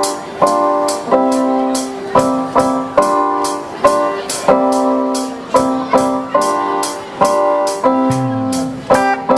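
Live band playing music: held chords changing every half second or so over a steady beat of sharp drum hits, about two a second.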